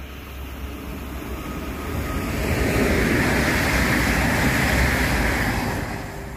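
Intercity passenger train passing at speed on the far track: a rushing rumble that swells over about two seconds, holds for about three, and fades near the end.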